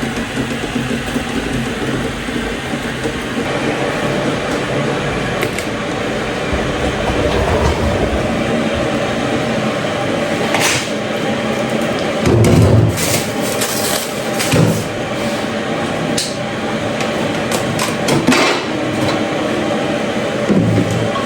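Household clatter of objects being handled and set down, with a few sharp knocks over the second half, over a steady background sound.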